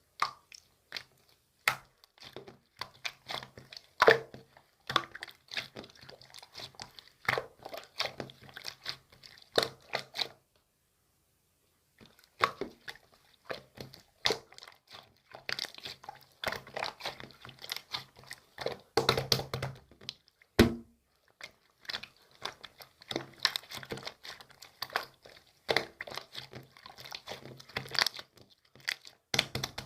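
Irregular crinkling and sharp tapping handling sounds, with a pause of about two seconds partway through.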